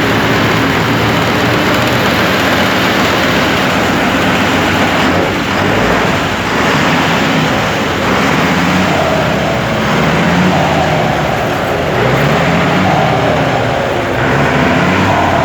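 Turbocharged diesel engine of a Mercedes-Benz 1526 truck running loud through an open straight exhaust with no muffler, with a comb ('pente') in the turbo. Its pitch rises and falls a few times in the second half, as it is revved.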